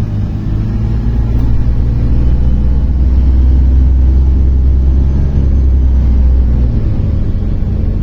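MAZ-103.465 city bus driving between stops, heard from inside the passenger cabin: a loud, steady low engine drone that shifts a little under seven seconds in.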